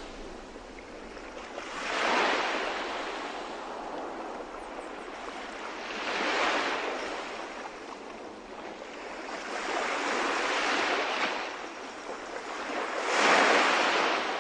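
Ocean waves washing in, four surges of surf swelling and falling away about every four seconds.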